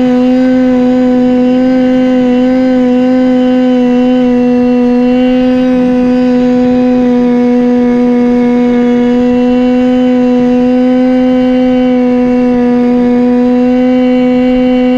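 Go-Ped scooter's small two-stroke engine, a Chongyang CY26RC from a fifth-scale RC car, running loud at a steady high speed under constant throttle, its pitch holding almost level with only a slight waver.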